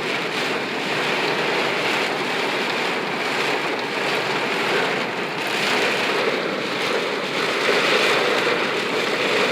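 Heavy rain pelting a moving car, heard from inside it, mixed with the steady hiss of tyres running through water on a flooding road.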